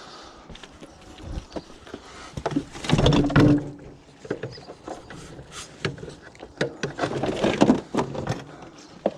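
Clunks, knocks and scraping of metal scrap being handled, with a short squeaky scrape about three seconds in and another burst of clattering around seven to eight seconds in.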